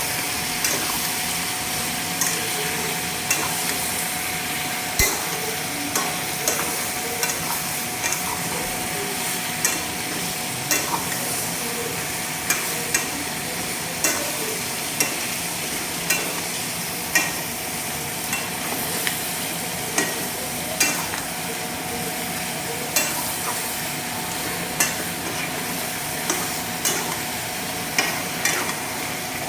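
Chicken curry frying in a pan, sizzling steadily, while a spatula stirs it and clacks against the pan roughly once a second.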